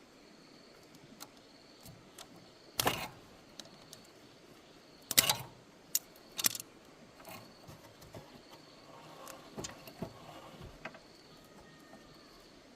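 Irregular clicks and knocks of tools and metal parts being handled, with three louder clatters about three, five and six and a half seconds in.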